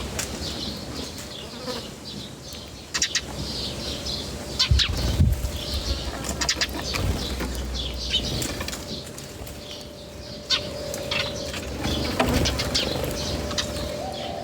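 Birds at a feeder: many short clicks of pecking and scuffling, with high chirping and wing flaps. A steady hum comes in about halfway through.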